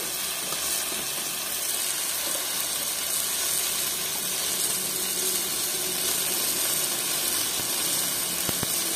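Spinach and eggplant sizzling in a kadhai, a steady hiss of frying and steam.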